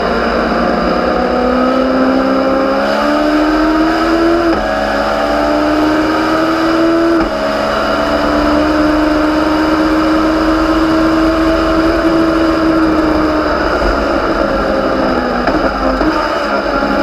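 Legends race car's Yamaha four-cylinder motorcycle engine accelerating hard through the gears: the pitch climbs, drops at upshifts about four and a half and seven seconds in, then keeps pulling. Near the end it eases off, with a few short blips as the driver lifts and downshifts.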